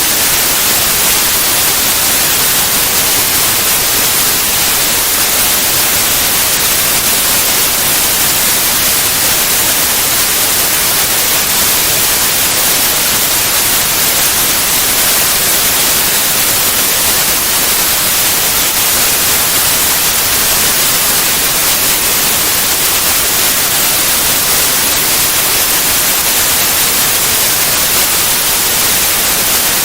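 Steady white noise: an even, unchanging hiss spread across all pitches, strongest in the highs.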